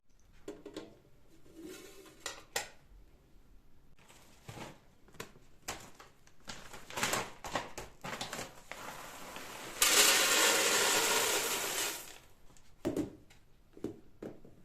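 Household chores: objects knocking and clattering as they are handled, with a loud steady rushing hiss lasting about two seconds near the middle.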